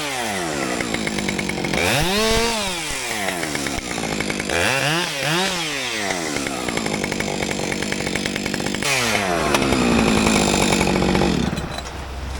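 Two-stroke chainsaw revving up and down, once about two seconds in and twice in quick succession around five seconds, then held steady at its loudest for a couple of seconds before easing off to a low idle near the end.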